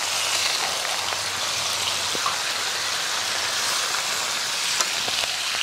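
Raw chicken livers sizzling steadily in hot oil on a tawa just after being added, with a few small pops.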